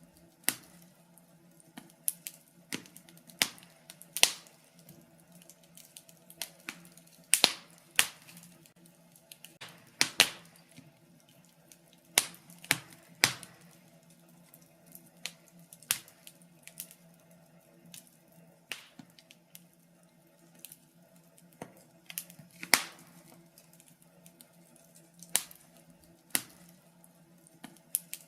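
Wood fire in a fireplace crackling: irregular sharp pops and snaps, roughly one or two a second and some in quick pairs, over a faint steady low hum.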